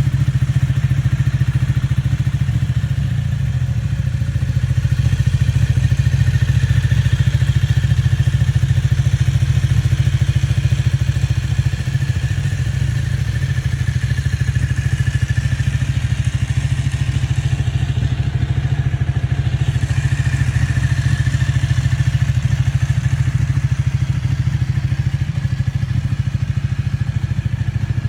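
Ducati Panigale 1199S's Superquadro V-twin idling steadily through a Termignoni exhaust, a loud, even, low exhaust note.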